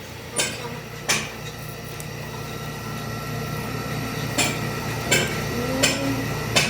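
Hammer blows on metal: two sharp strikes, a pause, then four more about two-thirds of a second apart, over a steady workshop machine hum that grows louder.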